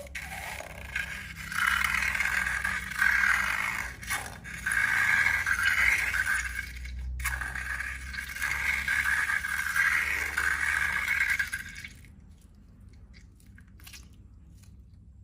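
Scraping and rubbing in slime-making, in long passes with short breaks, stopping about twelve seconds in, then a few faint clicks.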